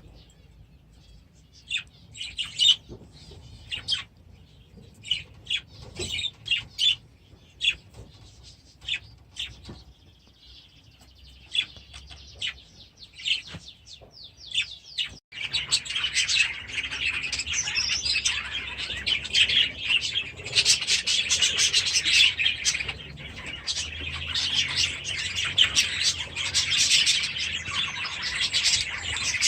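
Budgerigars chirping and chattering: scattered separate chirps at first, then, after a sudden break about halfway through, the dense, continuous chatter of a whole flock.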